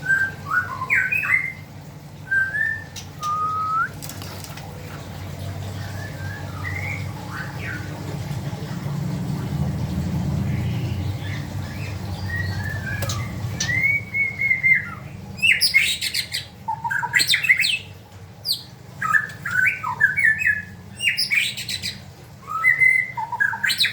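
Young white-rumped shamas calling with short chirps and sharp rising squawks, sparse at first and coming thick and fast in the second half. A low hum runs under the middle stretch.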